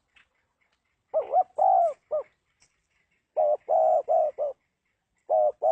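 Spotted dove cooing in short phrases: three notes about a second in, four notes a couple of seconds later, and a third phrase starting near the end. Each note swells up and falls back in pitch.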